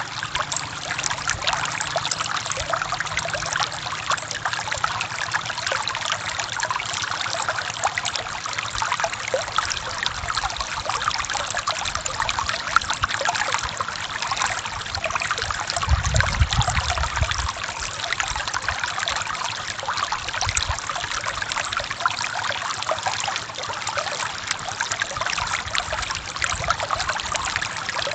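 Forest stream flowing and trickling over rocks, a steady splashing hiss. A brief low rumble comes in about two-thirds of the way through.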